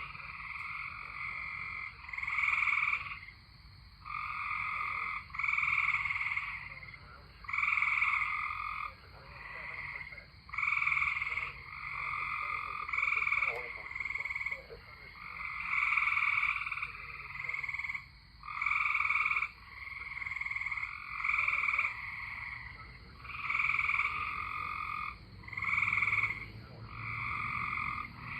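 Chorus of tree frogs calling: many trilled calls overlap, one starting every second or so, each lasting about half a second to a second.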